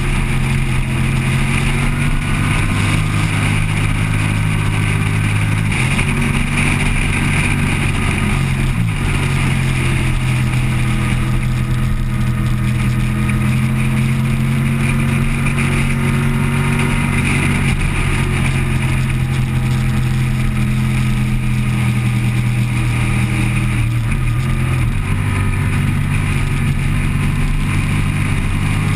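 Motorcycle engine running hard at speed, heard from a camera mounted on the bike, with a steady rush of wind noise; the engine note jumps in pitch a few times, as at gear changes.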